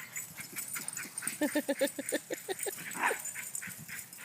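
Dogs playing tug-of-war over a toy, giving a rapid run of about eight short yips about a second and a half in.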